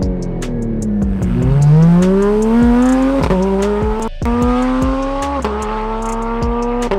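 Porsche 911 GT3 flat-six engine under hard acceleration: the revs dip briefly, then climb steeply, cut sharply for an upshift about four seconds in, climb again, and drop with another shift about five and a half seconds in.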